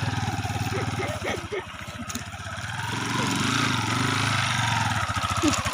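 Motorcycle engine running with a steady fast putter; it drops off about a second and a half in and picks back up around three seconds in.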